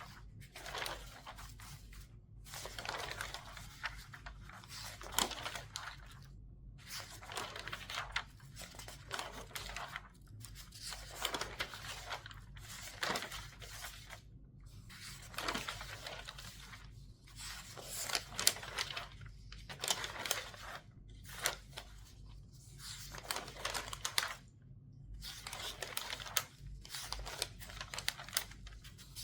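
Regular newspaper pages turned quickly one after another: rustling, crinkling swishes of newsprint, each turn followed by a brief pause, about one every one to two seconds.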